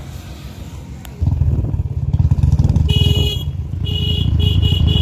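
Royal Enfield Bullet's single-cylinder engine running under way, its low pulsing rumble starting loud about a second in. From about halfway, a string of short high beeps sounds roughly twice a second.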